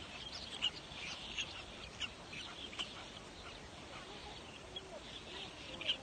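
Birds calling: many short, high, squeaky calls overlapping without a break, with a few louder ones standing out, about half a second in, near the middle and just before the end.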